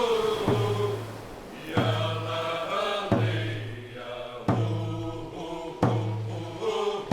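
Group of singers chanting a Kwakwaka'wakw song in unison over a held low note, with a struck drumbeat about every second and a third.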